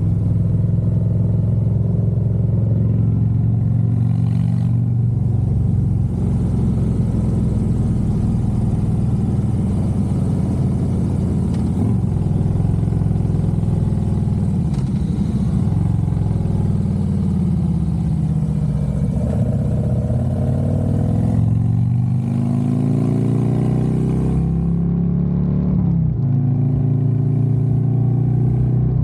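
Harley-Davidson Road Glide's V-twin engine running under way, its pitch falling as it slows about halfway through, then rising as it accelerates again, with a sudden change in pitch near the end.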